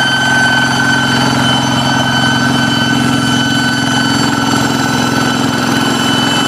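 Kubota engine of a hand tractor running steadily, with a loud, high whistling whine over the engine note: the fighter-jet sound it is known for.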